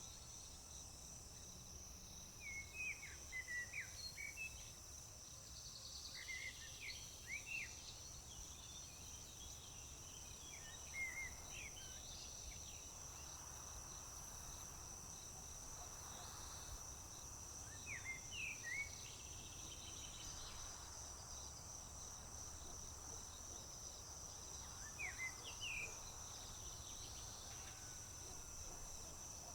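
A continuous high-pitched chorus of crickets chirping, with a songbird singing short, quick phrases every few seconds over it, and a low steady rumble underneath.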